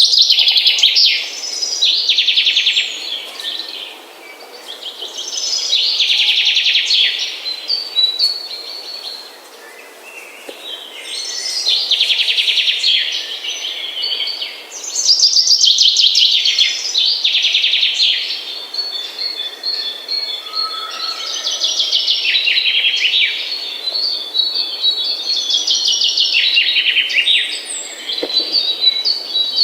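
Songbirds singing: a series of fast, high trilled phrases a few seconds each, separated by brief pauses, becoming denser and overlapping in the second half.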